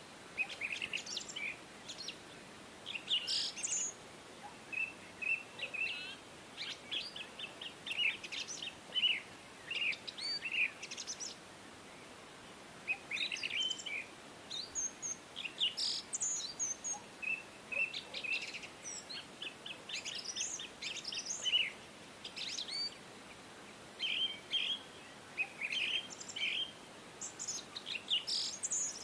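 Birds chirping and calling: many short chirps and quick trills, one after another, over a faint steady hiss.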